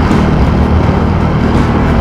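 Bajaj Dominar 400's single-cylinder engine running steadily at cruising speed, mixed with loud wind and road noise.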